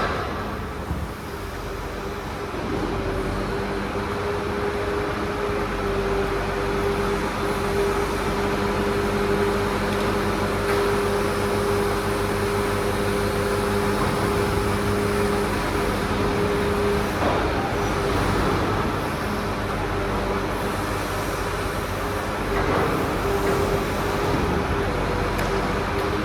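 Grapple crane truck running under operation: engine and hydraulics running steadily with a steady whine that fades for a few seconds past the middle and comes back near the end. A sharp knock right at the start.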